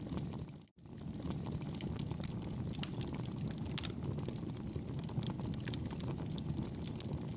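Wood fire burning in a fireplace: a steady low rumble with scattered small crackles and pops. The sound cuts out completely for a split second under a second in, then resumes.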